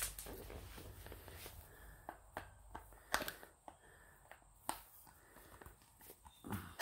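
A few scattered light clicks and knocks, spaced a second or more apart, over a faint quiet background.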